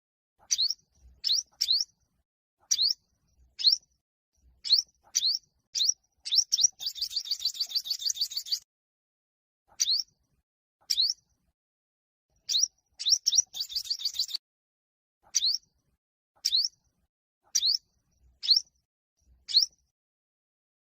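Olive-backed (yellow-bellied) sunbird singing its competitive song: sharp, high chirps about once a second, broken twice by a fast rattling trill, once about six seconds in and again near the middle.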